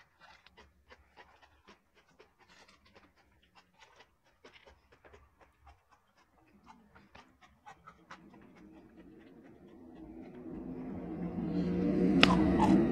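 Wet clicking mouth sounds of someone chewing raw jengkol, a few clicks a second. About two-thirds in, a pitched, breathy sound swells up and is the loudest thing near the end.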